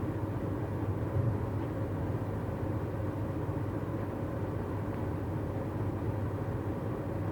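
Steady engine and road noise inside a moving car, a low even drone that does not change.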